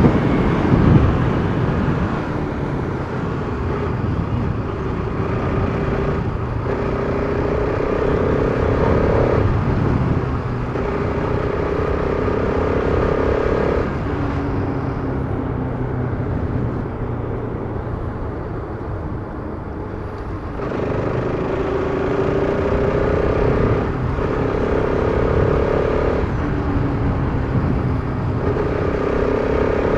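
Bajaj Pulsar RS200's single-cylinder engine accelerating through the gears, its pitch climbing and then dropping at each of several gear changes. It eases off for a few seconds midway, then pulls up through the gears again.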